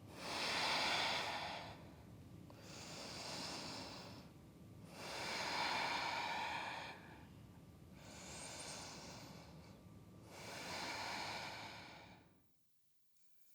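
A woman breathing slowly and deeply, three full breaths, each a softer and then a louder rush of air. Near the end it cuts off suddenly.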